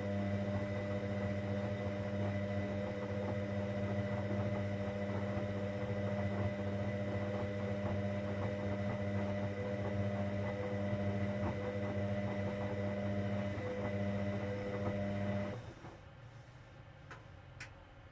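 Hoover Dynamic Next washing machine giving a steady electrical hum that cuts off suddenly near the end, followed by two faint clicks.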